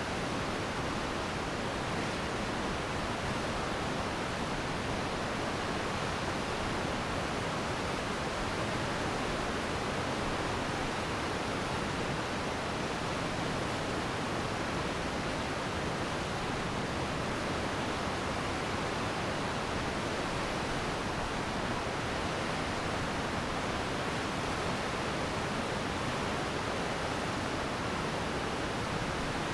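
Glacier meltwater stream rushing, a steady, unbroken water noise with no separate splashes or knocks.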